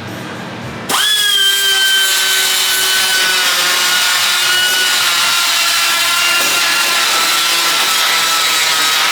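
Angle grinder starts about a second in and runs steadily, grinding metal down, its whine sagging slightly in pitch as it loads up.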